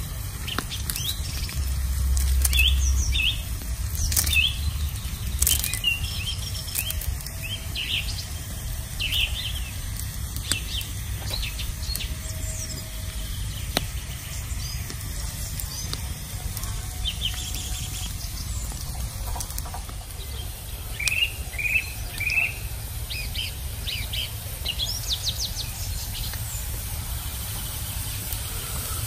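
Wild birds chirping, short high calls repeating throughout, over a low steady rumble. A few sharp clicks come in the first few seconds.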